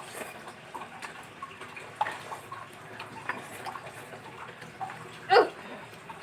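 Eating sounds from a bowl of spicy instant noodles: scattered small clicks and slurping, with one louder short sound about five seconds in.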